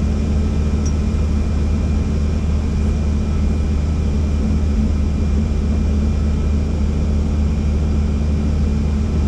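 Helicopter rotor and turbine noise heard from inside the cabin, a loud steady drone with a low rotor hum and a thin steady whine above it.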